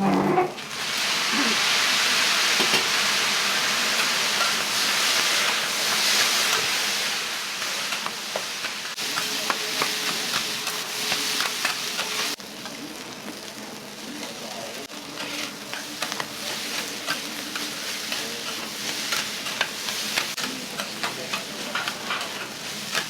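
Food sizzling on a hot iron teppan griddle, with metal spatulas scraping and tapping on the plate. The sizzle starts loud a little under a second in and drops sharply about twelve seconds in, leaving a quieter sizzle under frequent quick clicks of the spatulas.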